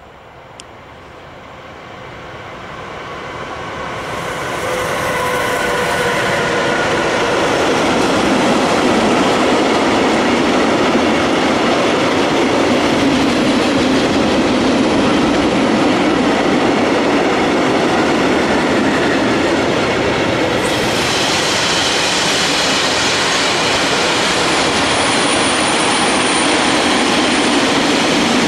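Electric-hauled freight train approaching and then passing close by: the noise grows steadily over the first several seconds, then holds as a loud, steady rolling rush of tank and covered wagons going by on the rails.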